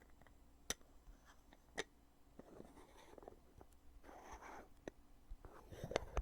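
Heavy lid of a foundation container being opened and closed: a few sharp clicks with short stretches of rubbing between, the loudest click near the end.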